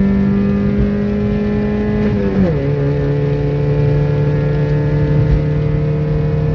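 Car engine at high revs under full acceleration, heard from inside the car: its pitch climbs slowly, drops sharply at a gear change about two and a half seconds in, then climbs again.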